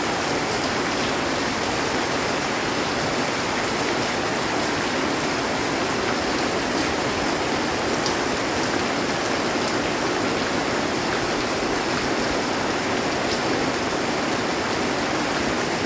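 Heavy rain falling steadily on a metal roof, an even, unbroken hiss of drops with no thunder.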